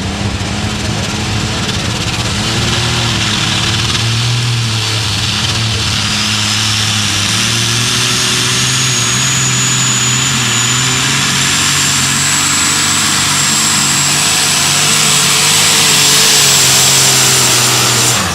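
Turbocharged Light Super Stock pulling tractor engine running hard under full load on a pull, with a high turbo whine that rises partway through and then holds. The engine note drops off suddenly at the very end.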